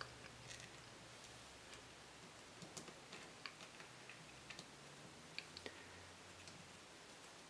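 Near silence broken by scattered light clicks and taps, about a dozen at irregular intervals: small engine parts and tools being handled on a workbench.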